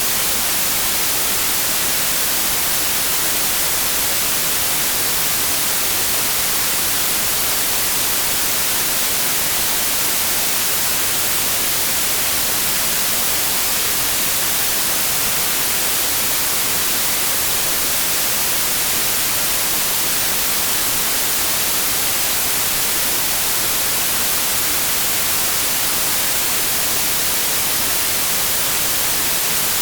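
Steady synthetic white noise: an even, unbroken hiss, strongest in the highest frequencies, with no change in level.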